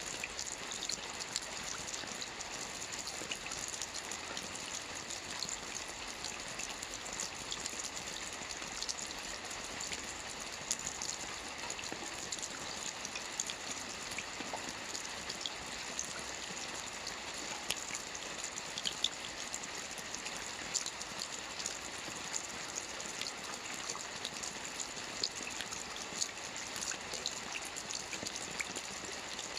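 Steady light rain with a hiss of drops and many small scattered drop ticks, without thunder.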